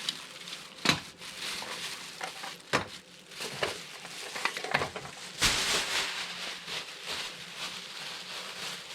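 Rustling and scattered light clicks and knocks as HO model train cars and their packaging are handled on a table, with a longer burst of rustling about five and a half seconds in.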